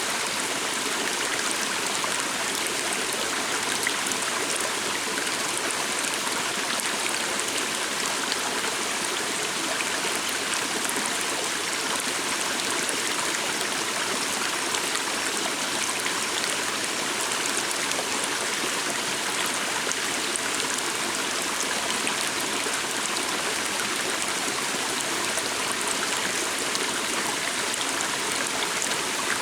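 Small stream of running water, flowing and babbling steadily.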